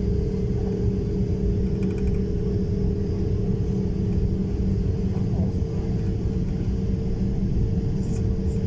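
Jet airliner engines running with a steady low rumble and a constant hum.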